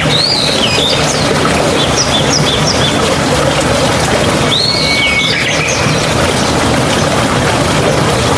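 Steady rush of flowing water, a mountain stream, with a bird calling over it: a curved whistled call near the start, a quick run of short chirps about two seconds in, and another call with a held note around the middle.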